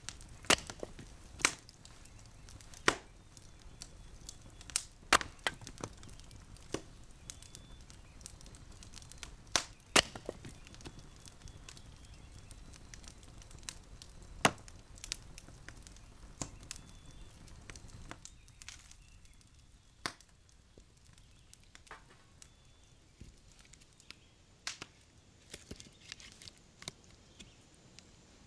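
Wood fire crackling, with sharp irregular pops over a low rumble; the loudest pops come in the first ten seconds. About eighteen seconds in the rumble falls away, leaving only a few fainter scattered cracks.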